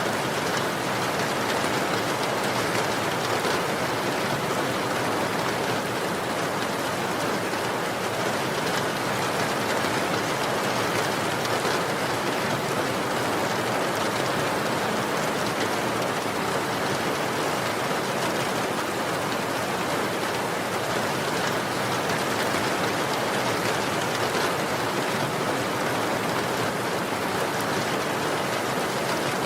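Steady, even rain falling, a continuous hiss of drops with no breaks or changes.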